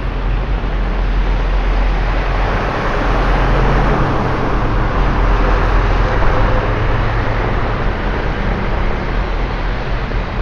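A motor vehicle passing on a wet road, its engine rumble and the hiss of tyres through water building to a peak in the middle and easing off near the end, over a steady wash of rain and traffic noise.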